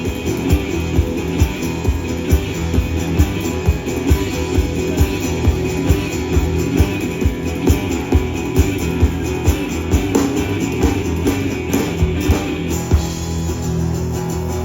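Live blues band playing an instrumental passage: guitar over a steady beat of a little over two hits a second.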